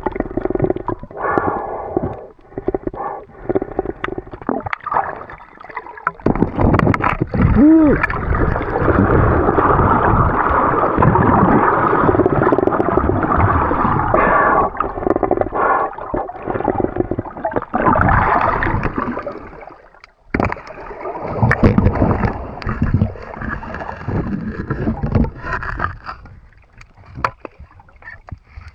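Water gurgling and sloshing against a camera held in the sea, mostly below the surface, in irregular surges with a long loud stretch in the middle.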